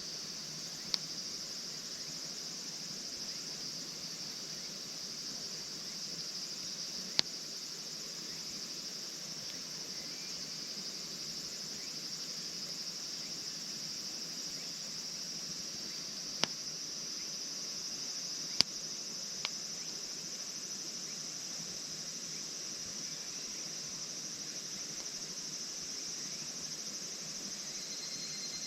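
Steady high-pitched chorus of crickets chirring, broken by a few sharp pops, five in all, the loudest about two-thirds of the way through.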